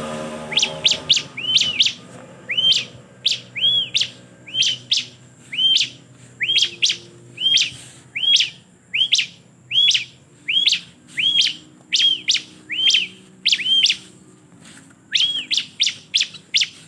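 Bar-winged prinia (ciblek) calling in a long series of sharp chirps, one or two a second. Each call is a quick upward note followed by an arched note, with a brief pause near the end before a last few calls.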